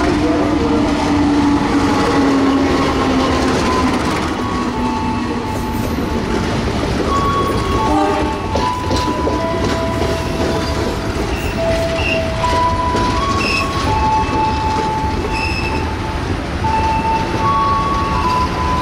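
A diesel-hauled passenger train passing close by. The locomotive's engine note falls slowly in pitch over the first few seconds, then the coaches roll past with wheel clatter and short, high squealing tones from the wheels that come and go.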